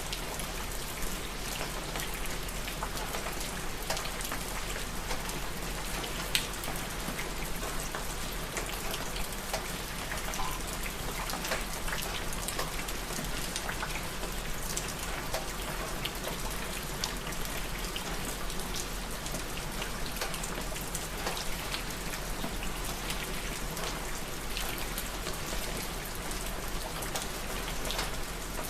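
Steady rain falling, a constant patter made up of many separate drops ticking on a surface.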